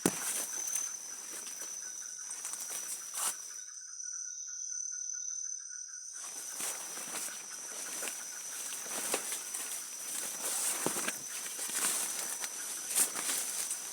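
Footsteps crackling through leaf litter and twigs on the forest floor, stopping for a couple of seconds about four seconds in, over a steady high-pitched drone of insects.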